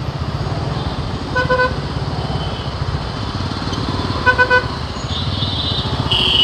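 Motorcycle engine running in heavy road traffic, with vehicle horns honking: one horn about a second and a half in, two short beeps around four seconds, and a higher-pitched horn near the end.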